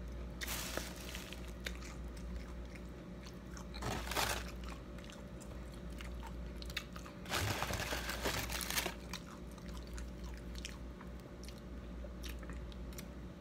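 Close-up mouth sounds of a person biting into and chewing crisp breaded fried fish: crunching bites about half a second in, around four seconds, and a longer run of crunching from about seven to nine seconds, with small wet chewing clicks between. A steady low hum runs underneath.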